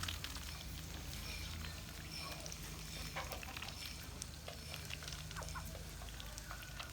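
Poultry moving about in their pen: scattered small taps and patter with a few faint, short chirps over a low steady hum.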